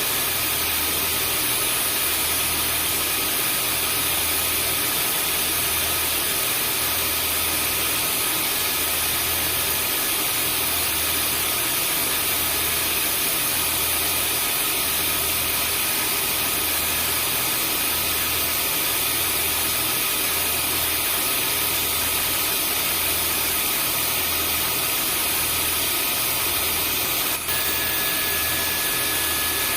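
Vacuum cleaner motor running steadily: an even rushing hiss with a fixed high whine over a low throb that pulses a little under once a second. Near the end there is a brief dropout, after which a slightly different whine joins in.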